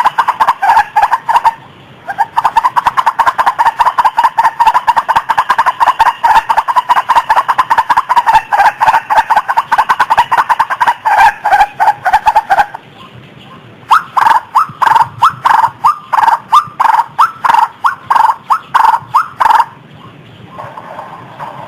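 White-breasted waterhen calls: long runs of rapidly repeated notes, broken by a short gap about two seconds in and a longer pause past the middle. Then comes a slower, more spaced series that stops shortly before the end.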